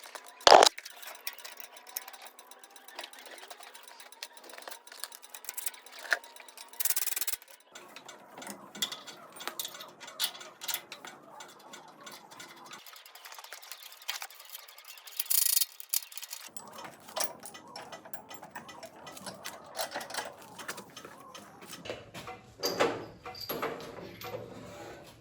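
Scattered clicks and knocks of tools and metal parts being handled, with one sharp knock about half a second in and two short hissing bursts, around seven and fifteen seconds in.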